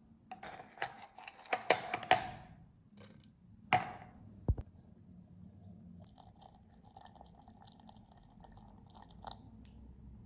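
Light clicks and clatter in a quick cluster, then two separate knocks near the middle, the second a dull thud, followed by faint crackling.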